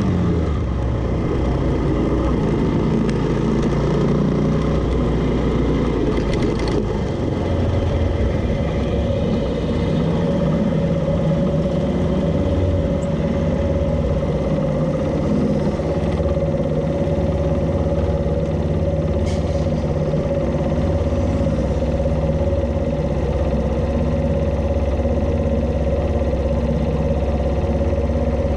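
Suzuki GN125H's single-cylinder four-stroke engine running as the bike slows, then idling steadily while stopped at a junction.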